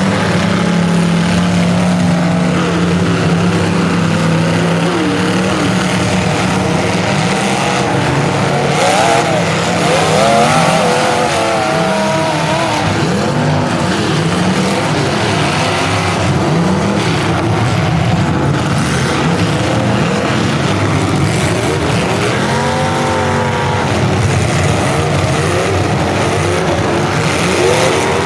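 Several full-size demolition derby cars' engines revving up and down at once, their pitches overlapping and sliding as the drivers accelerate and back off, with a few knocks from the cars.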